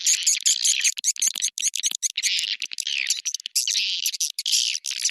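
Swiftlet lure call: dense, rapid, high-pitched twittering chirps of swiftlets, packed tightly with no pauses. This is the kind of call recording played at swiftlet houses to draw the birds in to roost and nest.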